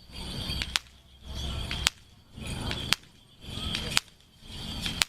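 Sharp cracks repeating about once a second, each followed by a short swell of rushing noise, in a very regular rhythm.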